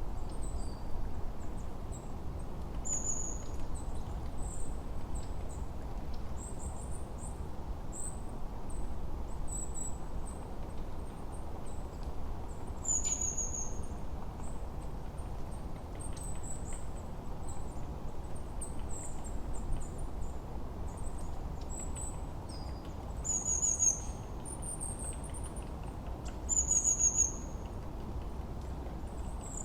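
Forest birdsong: many small birds giving short, high, thin chirps, with a clear down-slurred whistle repeated every few seconds, over a steady low rushing background.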